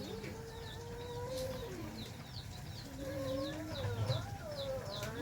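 Chickens calling: a steady run of short, high falling peeps, about two a second, over lower, drawn-out wavering calls.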